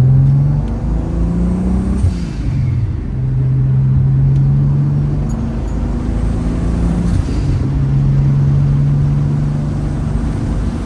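Turbocharged VR6 engine and exhaust under way. The engine note climbs over the first two seconds, drops abruptly, then holds steady for a few seconds at a time, with another change in pitch about seven seconds in.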